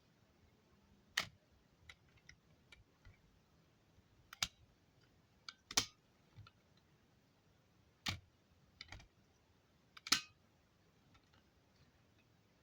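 Plastic toy trucks being handled: irregular clicks and knocks, five louder sharp knocks spread apart with fainter ticks between.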